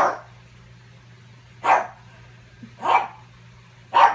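Pug barking: four short, sharp barks about a second apart.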